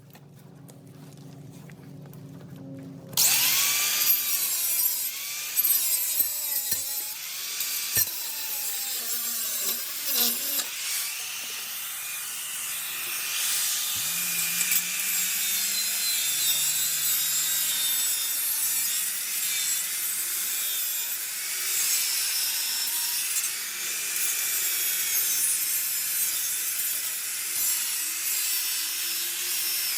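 Angle grinder with a cutoff disc cutting through a steel exhaust pipe. About three seconds in, the disc bites into the metal and a loud, steady grinding runs on, its pitch wavering as the disc loads and frees up.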